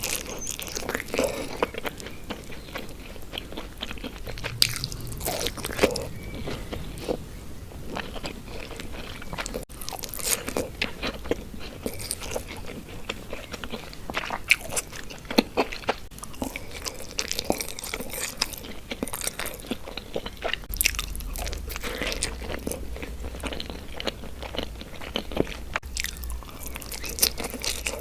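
Close-miked eating of Indian sweets: repeated biting and chewing with many sharp, irregular crunches.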